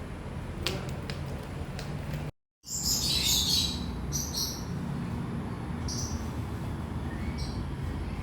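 Yellow-sided conure (a green-cheeked conure colour mutation) chirping: a burst of shrill chirps about three seconds in, then three short chirps spaced a second or two apart, over a steady low hum.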